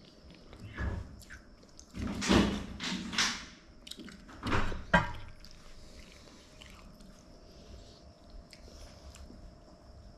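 Close-up crunching and chewing of crispy fried anchovies (ikan bilis) in sambal, in several crackly bursts over the first five seconds, loudest at about two seconds in. After that only faint light ticks over a steady hum.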